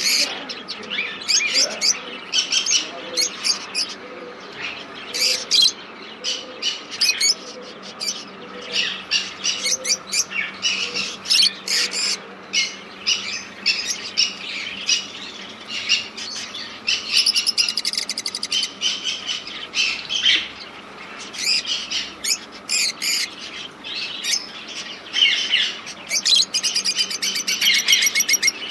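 Many caged birds chirping and calling over one another without pause, a dense chorus of short high chirps. Rapid high trills stand out about two-thirds of the way through and again near the end.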